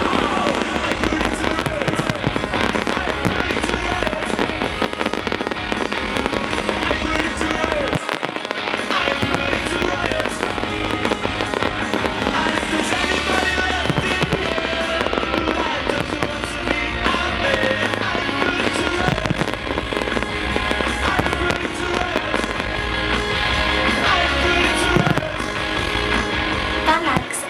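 Fireworks popping and banging repeatedly, mixed with a loud music soundtrack played over the show's speakers.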